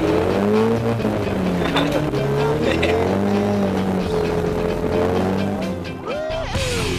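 Nissan drift car's engine heard from inside the cabin, revving up and down repeatedly as the throttle is worked through a drift.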